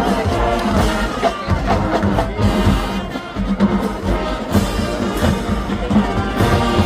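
High school marching band playing: brass with drumline percussion keeping a steady beat.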